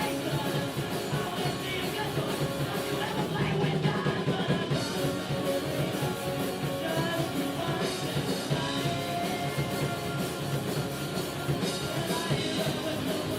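Rock music playing steadily, with drums, guitar and singing.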